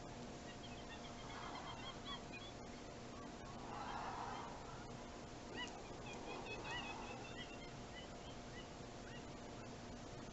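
Faint bird calls, short chirps in quick runs that come and go several times, over a steady low hum, with a few small clicks.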